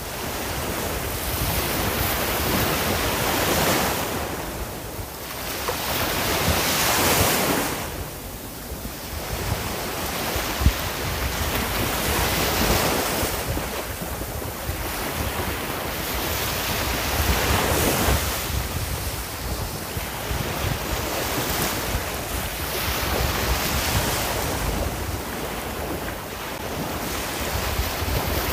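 Ocean waves breaking and washing on the shore, the surf swelling and easing every few seconds, with wind on the microphone.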